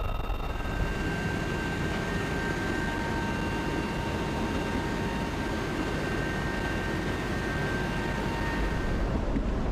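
Steady engine noise with a constant high-pitched whine running over it, which changes abruptly near the end.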